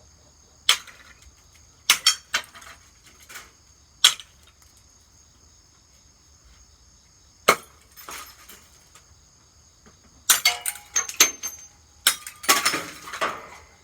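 Hammer smashing a Hampton Bay ceiling fan: a few sharp single blows spaced seconds apart, then a rapid flurry of strikes near the end with breaking, clinking glass from the light fixture. Crickets trill steadily underneath.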